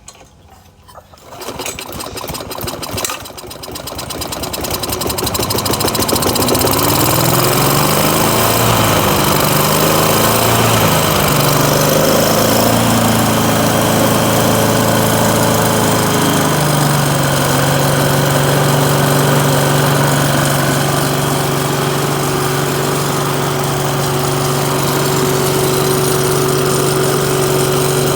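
Masport lawn mower's Briggs & Stratton engine pull-started: it catches within the first couple of seconds and comes up to speed. Its speed wavers unevenly for several seconds, then settles into a steady run about halfway through.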